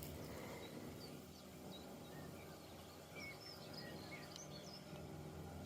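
Small birds chirping in short, scattered calls over a faint, steady low rumble, with a single sharp click near the end.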